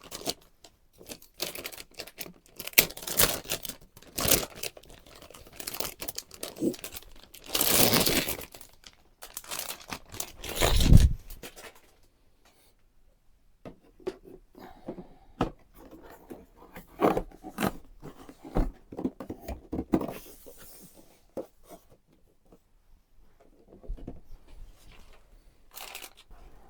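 Packaging being handled and opened: plastic and paper crinkling and tearing, with knocks and scrapes. A long loud rip comes about 8 seconds in and a heavier bump near 11 seconds, then quieter scattered rustles and clicks.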